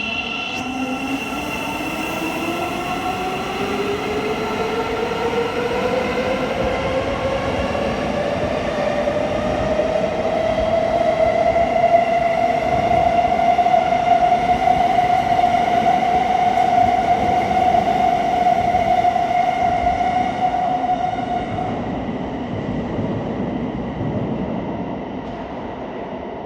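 Thameslink Class 700 electric multiple unit accelerating away from the platform. The traction motors give a whine that rises steadily in pitch for about ten seconds, then holds level. Near the end the whine stops and the train's sound fades as it pulls away.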